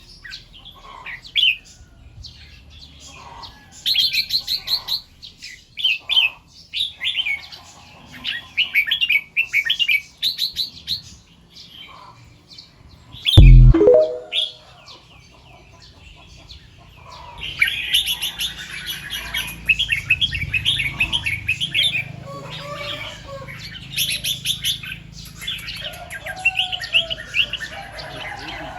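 Red-whiskered bulbuls singing short, repeated whistled phrases, which grow denser and overlap from about two-thirds of the way in. A single loud thump comes about halfway through.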